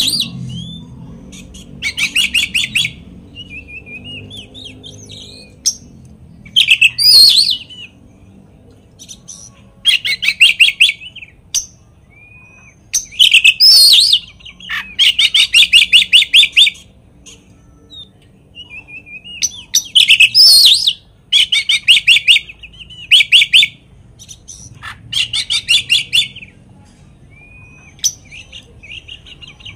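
Oriental magpie-robin (kacer) singing a full, mimicry-laden song in loud bursts of rapid trills and varied whistled notes, each a second or two long and repeating every few seconds, with softer calls between. It is a pancingan song, the kind played to provoke other magpie-robins into singing.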